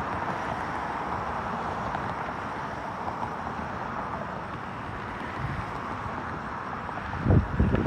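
Steady outdoor background hiss and rumble with no calls, then a couple of gusts of wind buffeting the microphone near the end.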